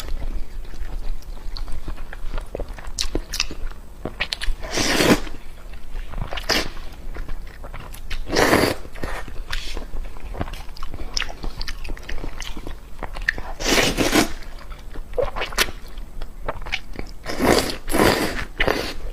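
Close-miked eating: steady chewing with many small wet mouth clicks, and a few louder noisy bursts of about half a second every three to five seconds as the eater takes another mouthful.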